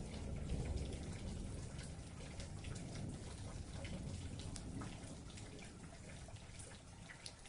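Steady rain, with individual drops ticking sharply on a surface over a low rumble, easing slightly in loudness toward the end.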